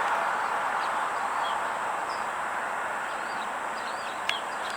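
A few faint, short chirps of small birds over a steady outdoor rushing hiss.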